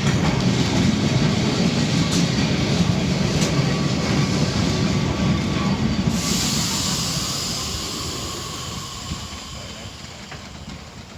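Lisbon Tram 28 streetcar running on its rails, a low rumble that fades away over the second half. A hiss sets in about six seconds in.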